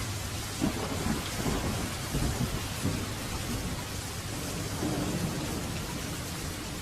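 Steady rain falling, with low rumbles of thunder rolling in about half a second in and again about five seconds in.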